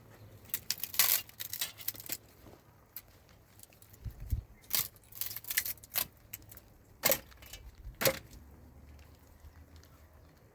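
Irregular sharp clicks and crinkly rustling from objects being handled, with clusters of louder crackles about a second in, around five to six seconds in, and again around seven to eight seconds in.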